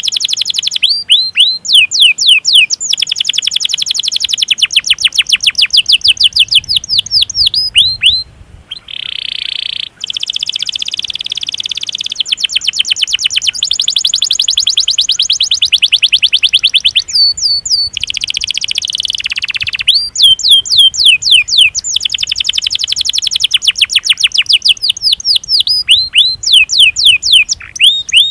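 Domestic canary singing a long, rapid rolling song of fast repeated chirping notes, broken by a few short pauses and a buzzier trill about a third of the way in.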